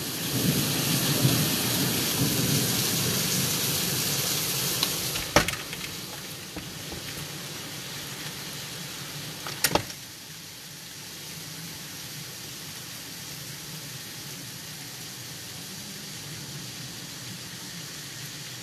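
Heavy rain pouring down in a steady hiss, loud at first and then quieter and more muffled after a sharp knock about five seconds in. Another sharp knock comes near the ten-second mark.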